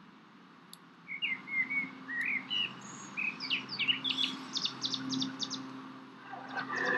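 Birds singing: after about a second of near silence comes a run of short chirps and rising and falling whistles, then quick repeated notes, fading out about six seconds in.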